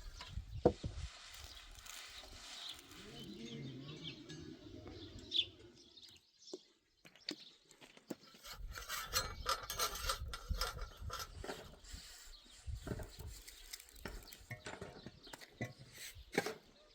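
Outdoor animal sounds, likely livestock, with many scattered short knocks and clicks and a quieter gap just after the middle.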